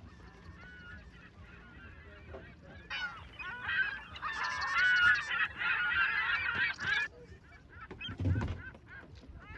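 Geese honking, many calls overlapping, with a loud stretch of dense honking lasting about four seconds in the middle.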